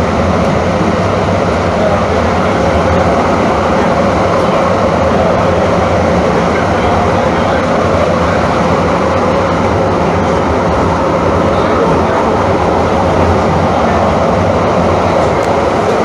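Steady running noise inside a moving light-rail train car: the even rumble of wheels on the track and the traction motors, with no stops or breaks.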